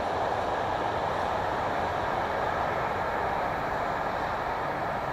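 Freight train rolling away out of sight: the steady rumble of its wagons' wheels on the rails, beginning to fade near the end.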